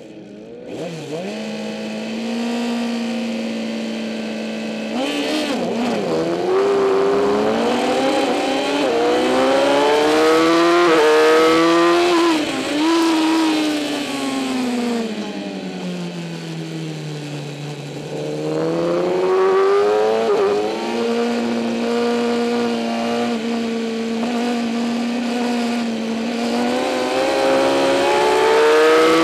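2008 Kawasaki ZX-10R's inline-four engine at racing speed: revs held steady for a few seconds, then climbing in repeated rises cut by gear shifts, falling in a long dip under braking about midway, holding steady again, and rising once more near the end.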